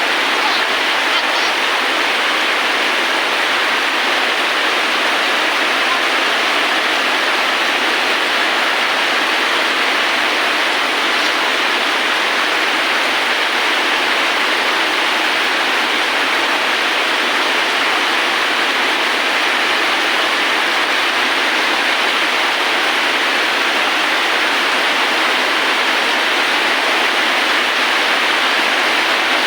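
Steady, dense rainfall: an even hiss of falling rain that holds the same level throughout.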